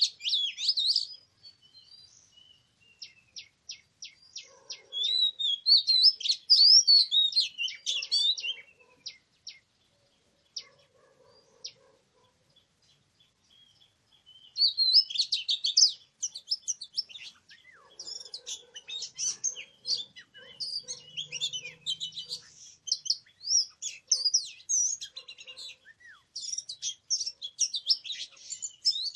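Oriental magpie-robin singing: fast, varied whistled and chattering phrases with a run of rapid ticking notes. A pause of several seconds falls in the middle, and the song then runs on almost without a break.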